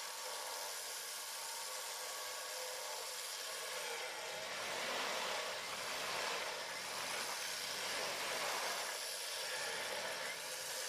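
Off-road SUV's engine running steadily under a steady hiss while the vehicle sits stuck in mud on a taut tow line. The sound swells a little in the middle.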